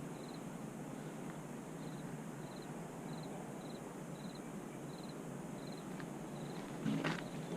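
A cricket chirping steadily, a short high trilled chirp repeating about every half second or so over quiet outdoor ambience. A couple of knocks come near the end.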